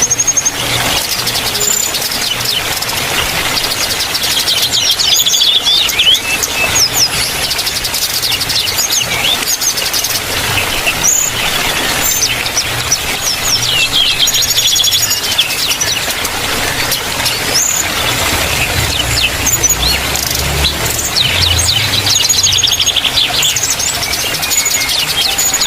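Aviary birds chirping and trilling in quick repeated bursts, with several birds calling over one another.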